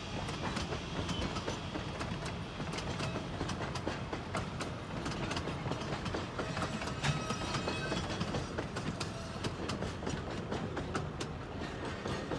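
Narrow-gauge passenger coaches rolling past on the rails: a steady rumble with many irregular wheel clicks and clacks on the track.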